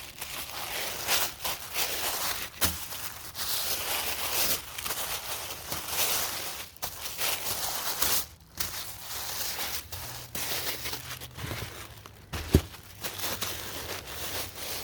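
Packing paper being crumpled and handled, a continuous rustling crinkle with many small crackles, and one sharp knock late on.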